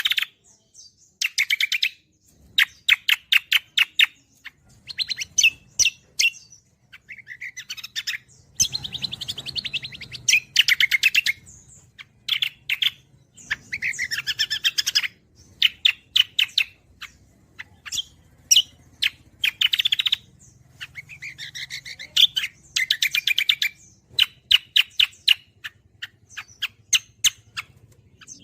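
Cucak kombo songbird singing in full, continuous song: phrase after phrase of rapid, chattering trills with short pauses between them.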